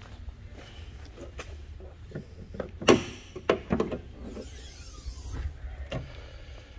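A car hood being released and lifted: a few sharp knocks and clicks from the latch and hood about three to four seconds in, over a low steady rumble.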